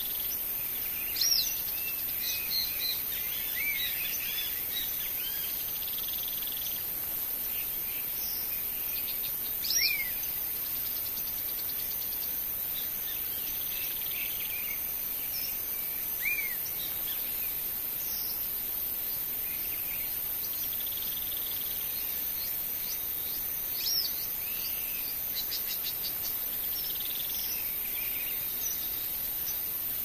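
Birds calling: a short, arched chirp stands out every six to eight seconds, with fainter chirps scattered between, over a steady high insect hiss.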